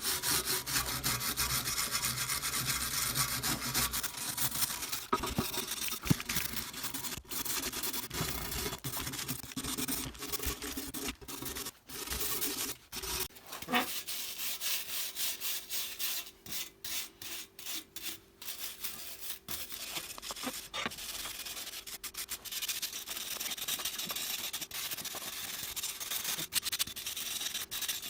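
Abrasive scrubbing, like sanding by hand, going on steadily with a few short breaks in the middle. A faint steady hum runs under it in the second half.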